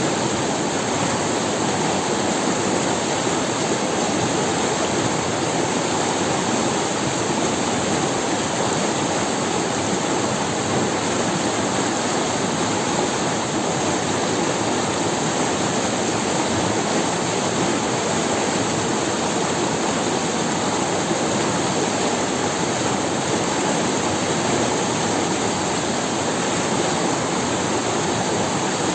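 Forest river running over stones: a steady, even rush of water with no pauses or changes.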